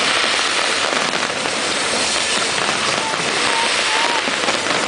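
Fireworks going off in a dense, continuous crackle, with a few short whistles gliding up and down in the second half.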